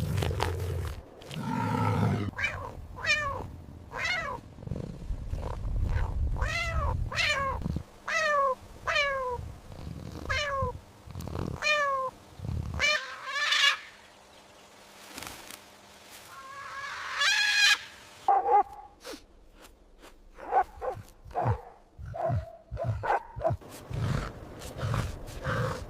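A series of short animal calls, each rising briefly and then falling in pitch, repeated about once a second. These are followed by one louder, higher call and a scatter of shorter sounds.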